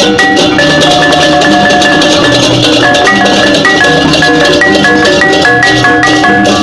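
Balinese gamelan music: fast runs of short, ringing metallophone notes over percussion.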